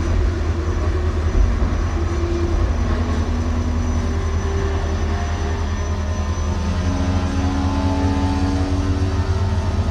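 Freight train rolling past with a steady heavy rumble, overlaid by short whining tones that step up and down in pitch and come more often in the second half.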